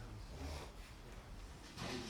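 Faint murmur of distant voices over a low steady rumble of room noise.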